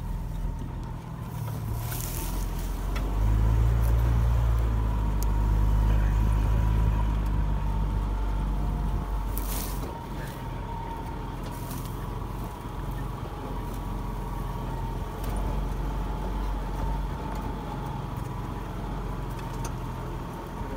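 A motor vehicle driving, its engine running with a low rumble that grows louder for a few seconds about three seconds in, then settles, with a faint steady whine underneath and a few brief rushes of noise.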